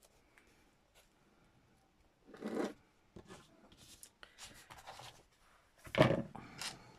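Paper and craft materials being handled on a work surface: a run of short, irregular rustling and rubbing noises, the loudest about six seconds in.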